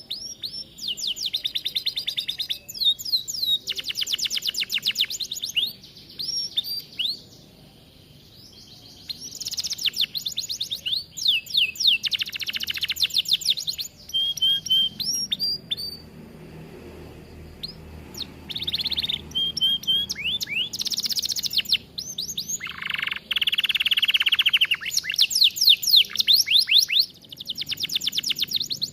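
Domestic canary singing in full song: fast trills of rapidly repeated notes in phrases a few seconds long, with short pauses between phrases.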